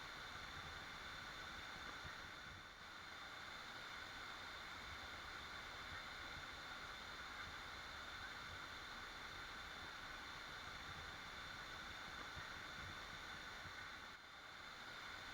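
Waterfall: falling water rushing in a steady, faint hiss, dipping slightly for a moment about three seconds in and again near the end.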